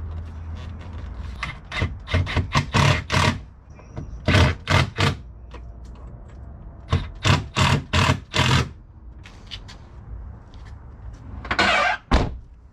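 Three groups of quick, sharp knocks, several a second, then a short noisy rush and one last sharp knock near the end.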